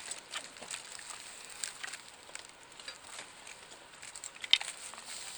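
Wood campfire crackling, with irregular small pops and one louder snap about four and a half seconds in.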